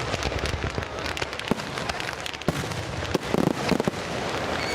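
Fireworks going off: a dense, irregular run of sharp crackling pops, with a heavier burst about three and a half seconds in.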